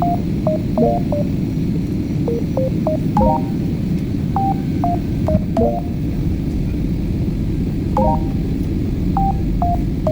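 A string of short electronic beeps, some single and some sounding as chords, at an uneven pace over a steady low rumble.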